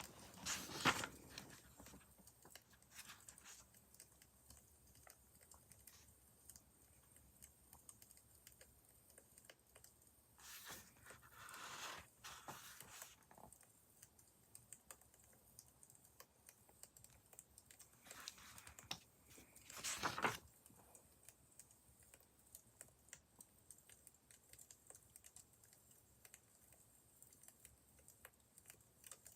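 Faint crackling of a wood fire: a steady scatter of small pops and snaps, with three louder rustling swishes spread through it.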